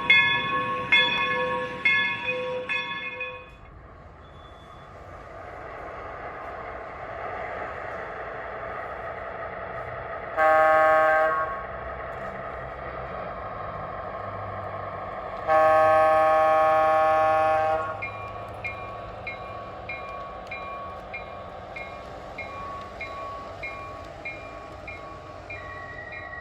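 Sound system of an MTH RailKing O-gauge SW1200 diesel switcher model: a locomotive bell strikes about four times, then a steady diesel engine rumble runs under a short horn blast about ten seconds in and a longer one about fifteen seconds in. From about eighteen seconds the bell rings again, about twice a second.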